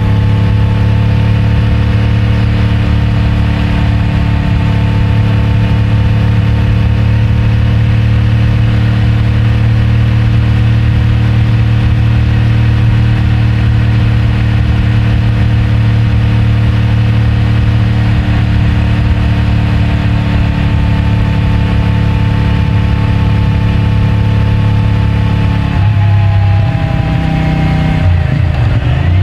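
CFMOTO 450MT's parallel-twin engine and stock exhaust running at a steady cruise, heard from the rider's position. Near the end the engine note breaks and shifts pitch twice.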